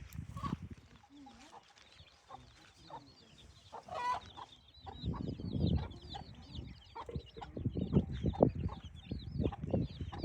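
Domestic hens clucking, with one louder pitched call about four seconds in. Small birds chirp rapidly and high from about the middle on.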